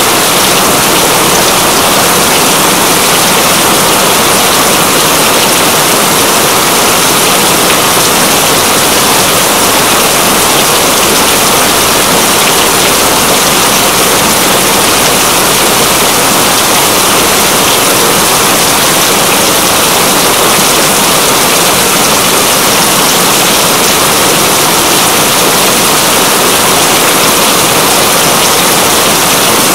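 Steady, heavy rain: a loud, even hiss of falling water that does not let up.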